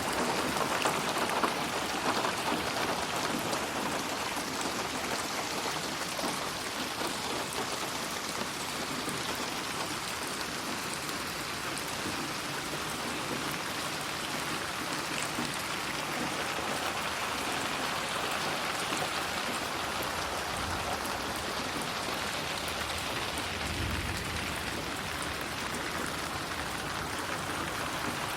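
Steady rain falling and pattering on surfaces, a dense even hiss processed as 8D audio to move around the listener's head. A soft low rumble swells briefly about three-quarters of the way through.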